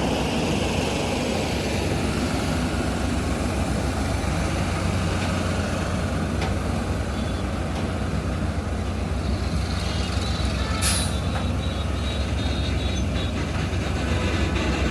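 Heavy truck diesel engines running steadily under load with a deep, even hum, and a brief high hiss about two-thirds of the way through.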